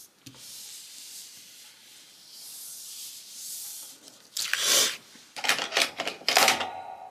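Paper being rubbed smoothly for a few seconds, then a run of sharp crinkling and tearing as a paper or sticker sheet is handled.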